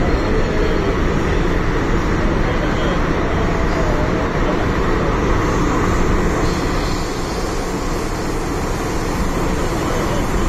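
MTR M-Train electric multiple unit running, heard from inside the car: a steady, loud rumble of wheels and running gear on the track.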